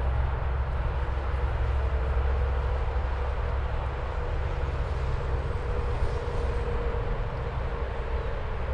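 Steady highway traffic noise: a continuous low rumble with tyre and road noise, without change or sudden events.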